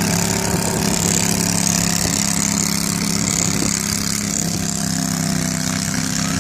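14 HP Briggs & Stratton Vanguard V-twin engine in a Cub Cadet 1050 garden tractor, running at a steady speed with an even, unchanging pitch.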